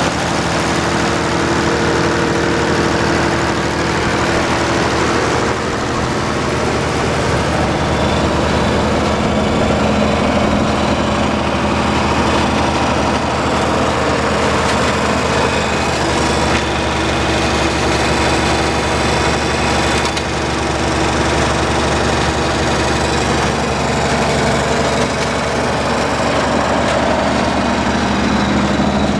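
1968 Case 930 tractor's six-cylinder engine running steadily, with its engine note shifting slightly a few times.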